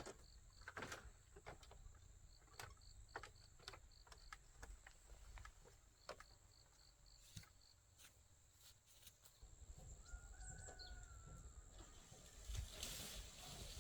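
Faint rural ambience: insects chirping in short even runs over a steady high whine, with scattered light clicks and knocks. A short bird call rises and falls about ten seconds in, and the background noise grows louder near the end.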